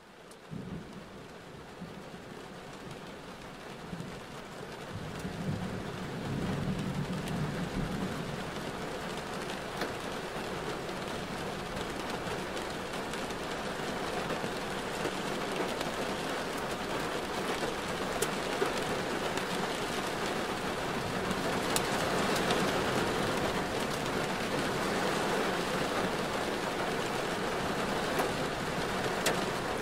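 Steady rain noise on a car driving through rain, with scattered sharp ticks of drops striking. It grows louder over the first several seconds, then holds.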